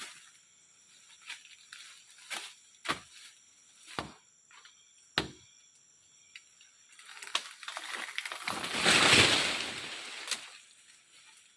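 A handful of scattered sharp snaps or clicks, then a longer rustling noise that swells and fades over about three seconds past the middle.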